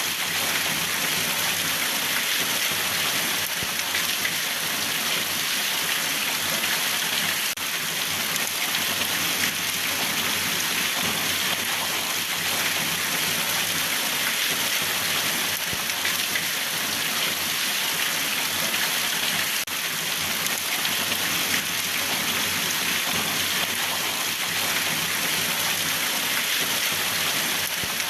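Steady rain falling: an even, dense hiss of many drops, strongest in the upper range, with no thunder. The level dips briefly twice.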